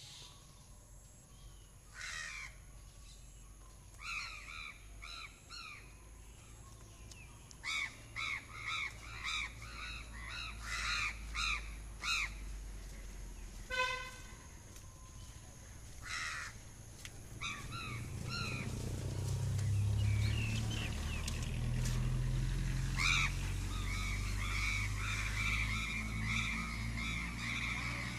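Crows cawing over and over in runs of several harsh calls, with a brief horn-like tone about halfway through. A low rumble builds up in the second half.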